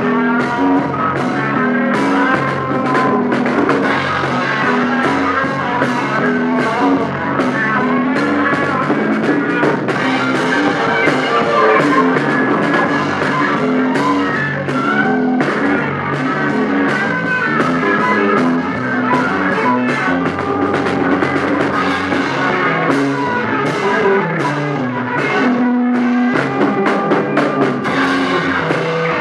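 A rock band playing live in rehearsal, with electric guitar, bass, keyboard and drum kit, recorded on a lo-fi tape.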